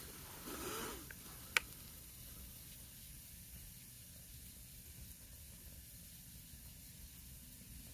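Oak firewood burning in a fire pit: a low, steady hiss with a short rush of noise under a second in and a single sharp pop about a second and a half in.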